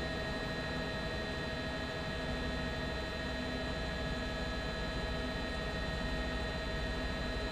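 Steady drone of a helicopter's engine and rotor, a constant whine over a fast low throb, holding level without change.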